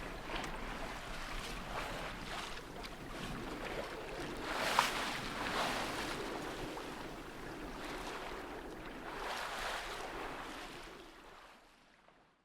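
Wind and sea noise aboard a small sailing yacht: a rushing hiss of wind and water that rises and falls in gusts, fading out near the end.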